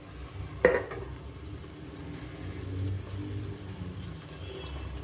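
Rice and chicken masala sizzling in a pot on a high flame, with light stirring. A single sharp knock, a utensil against the pot, comes about two-thirds of a second in.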